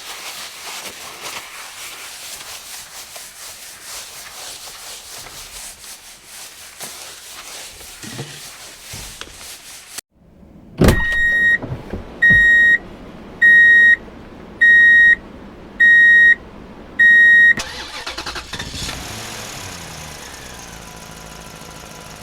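Cartoon vehicle sound effects. A motor runs with a steady rattling noise, then cuts out briefly. A thump follows about halfway through, then six loud, evenly spaced electronic beeps about a second apart, like a truck's warning beeper, and the motor noise resumes more quietly.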